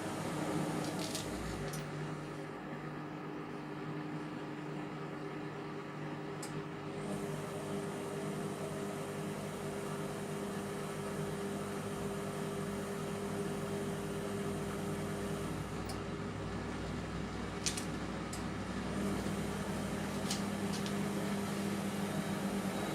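Indesit MTWC71252WUK washing machine running mid-cycle on a cotton 30 wash: a steady motor hum whose pitch shifts a little a couple of seconds in and again near the end, with a few light clicks in the second half.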